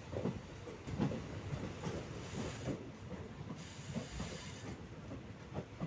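ICF passenger coaches of an Indian Railways express running round a curve, heard from the coach side: wheels rumbling and knocking over the rails. A high hiss comes in twice, briefly, about two and four seconds in.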